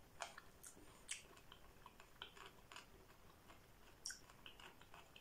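Faint close-up chewing of a sushi roll: soft wet mouth clicks and smacks scattered throughout, with a sharper one about a second in and another near the end.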